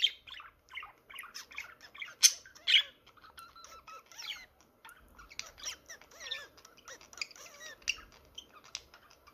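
Budgerigar chattering: a busy run of short chirps, clicks and warbling whistles, with a few sharp, louder squawks a couple of seconds in.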